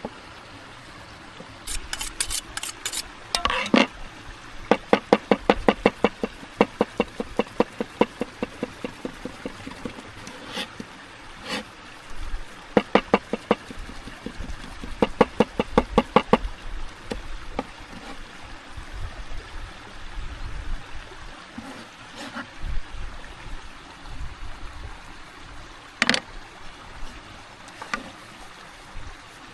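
Bursts of rapid, evenly spaced knocks, several strokes a second, each burst lasting a few seconds, with a few single knocks later on. A stream runs steadily underneath.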